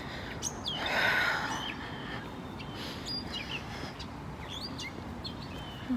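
Birds chirping and calling in short scattered notes, over a low steady background rumble, with a brief rush of noise about a second in.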